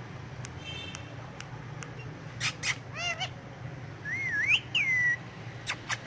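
Ringneck parrot calling: a few short sharp calls and a quick run of arching notes, then a whistle that slides up and down for about a second, then quick sharp chirps near the end.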